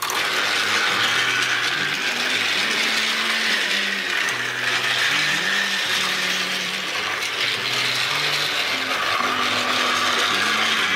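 Battery-powered toy train's small motor and plastic gears whirring and clattering steadily as it runs along its track, starting suddenly and cutting off near the end.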